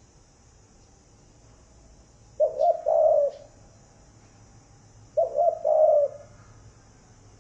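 Spotted dove cooing: two call phrases about two and a half seconds apart, each a couple of quick notes running into a longer coo.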